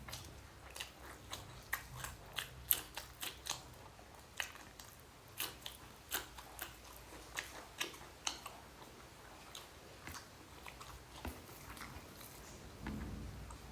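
Close-up mouth sounds of a person chewing a meal of rice and egg curry: a run of small wet clicks and smacks, several a second, thinning out in the last few seconds.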